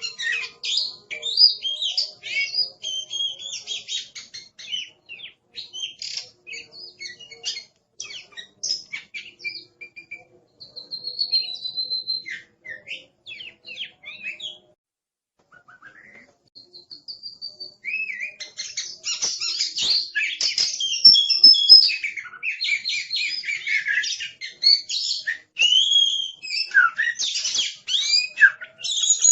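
Oriental magpie-robin (kacer) in fierce full song: a fast, noisy run of varied chirps, whistles and harsh trills. It thins out midway, breaks off briefly about halfway through, then comes back louder and denser for the rest.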